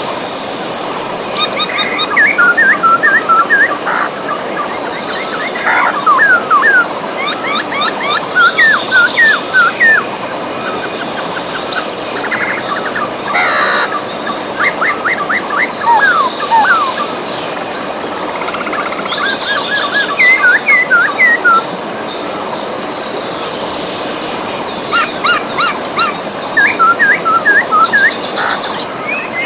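River water running steadily, with songbirds singing over it in repeated phrases of quick whistled notes that sweep up and down, coming every few seconds.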